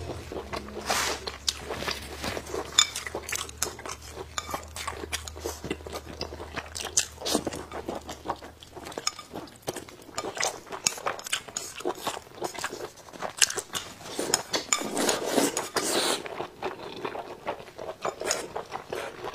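Close-miked mouth sounds of a person chewing fried pig intestines in spicy sauce: many short wet smacks and bites, busiest a little before the end. A low hum sits underneath for the first half and stops about nine seconds in.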